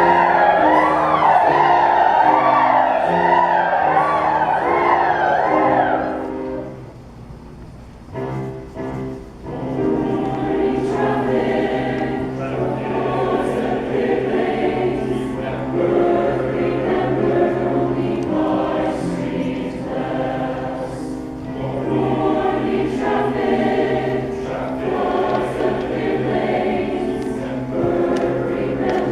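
Choir singing: a loud held passage with wide vibrato breaks off about six seconds in, a few quiet seconds follow, then the full choir comes back in more softly.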